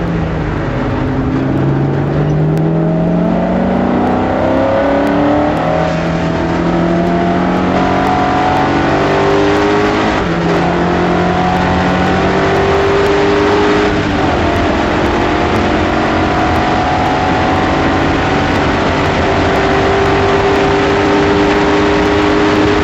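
BMW E30 race car's S62 V8 engine accelerating hard, heard onboard, rising in pitch through several upshifts in the first half and then holding a steady high note.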